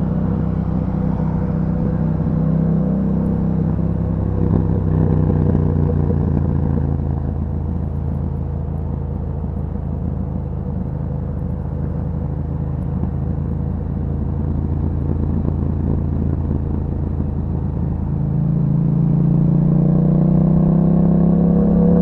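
2021 Yamaha MT-07's parallel-twin engine through an Akrapovic exhaust while riding: it eases off to a steady low rumble for most of the stretch, then pulls again about eighteen seconds in, its pitch rising as it accelerates.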